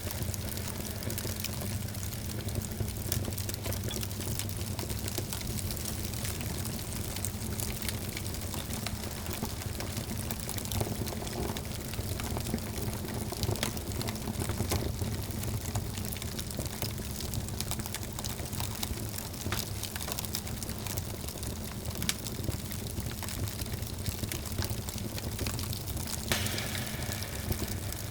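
Wood fire burning in a fireplace: a steady low rumble of the flames with frequent small irregular crackles and pops.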